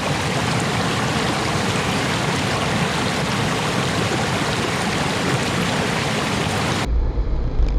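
Water rushing steadily, a dense even roar of a stream or waterfall. Near the end it cuts off abruptly, replaced by a deep low rumble.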